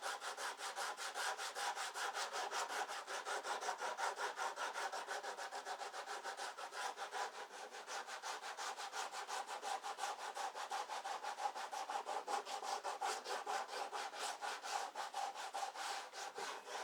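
Rapid, steady back-and-forth rasping strokes of a hand tool working wood by hand.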